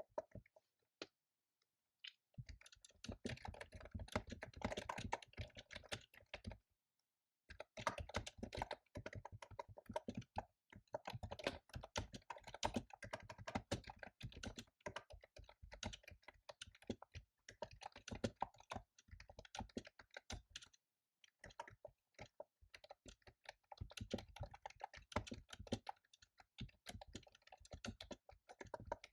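Fast typing on a computer keyboard: rapid runs of key clicks broken by short pauses, with only a few scattered keystrokes for the first two seconds and a brief stop about seven seconds in.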